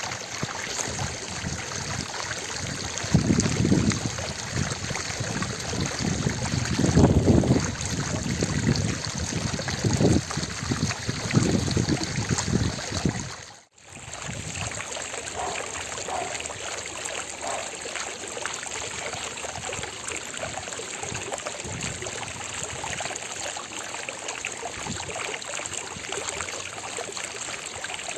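Fountain water splashing and trickling in a steady rush. It breaks off for a moment about halfway through, then goes on more evenly.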